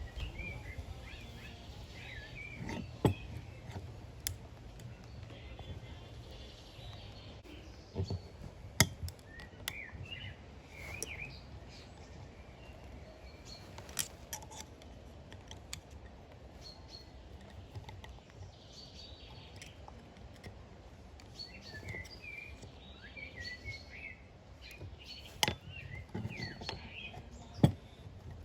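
Songbirds chirping in short bursts, with a few sharp knocks scattered every few seconds.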